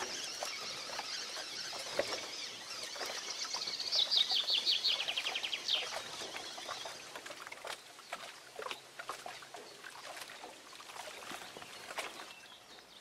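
A songbird singing: a thin, high trill that breaks into a louder run of quick notes falling in pitch about four seconds in, then dies away. Scattered faint clicks sound around it.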